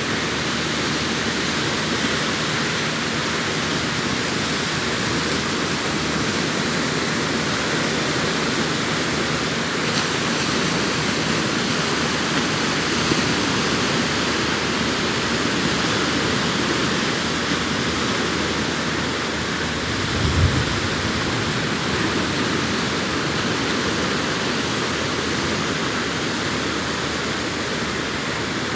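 Sea surf washing steadily onto the beach, a continuous rushing hiss of breaking waves, with a brief low thump about twenty seconds in.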